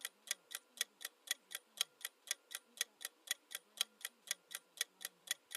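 Countdown-timer clock ticking sound effect: evenly spaced sharp ticks, about four a second.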